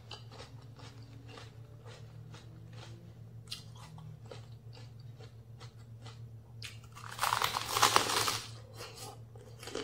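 Close-up chewing of raw round eggplant with small wet crunches and mouth clicks. About seven seconds in comes a loud crunching bite into raw bok choy stalks, the loudest sound here.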